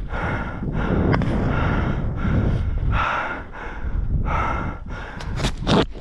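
A person breathing hard and rhythmically, gasping while on the move, over wind rumble on the microphone. A few sharp knocks come close together about five seconds in.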